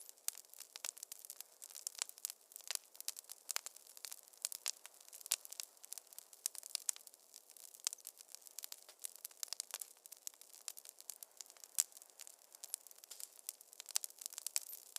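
Wood fire crackling in a fireplace: many irregular sharp pops and snaps, several a second, over a faint steady hiss.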